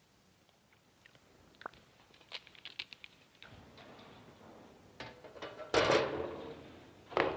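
Handling noises: scattered light clicks and taps, then a louder rustling clatter about six seconds in and a sharp knock just before the end.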